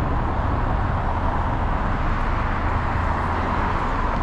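Steady traffic noise from a busy highway: a constant wash of tyres and engines, swelling a little near the end as vehicles pass close.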